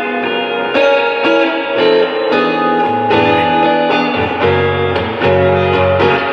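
Guitar playing the instrumental intro of a song live, with a new chord struck about every half second.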